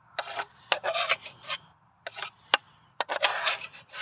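A hand tool scraping and digging through thick oil sludge in a David Brown engine's baffled sump pan, in a run of short rasping strokes with a few sharp clicks of metal on metal. The sludge is being cleared from one compartment to the next so the oil can flow between the baffles.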